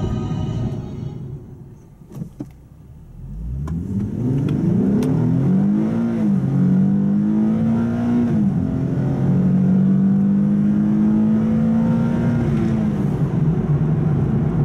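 Nissan 370Z's 3.7-litre V6 accelerating hard from a standstill, starting about three seconds in. The engine pitch climbs and falls back at two quick upshifts, then holds a long steady pull before dropping again near the end.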